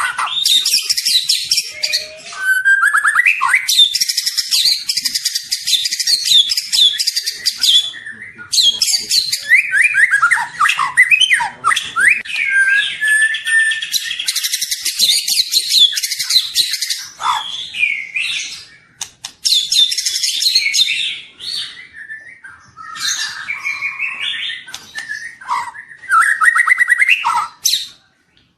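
Juvenile white-rumped shama (murai batu trotol) in full song: a long run of rapid, varied whistles, trills and chattering phrases, broken by several short pauses.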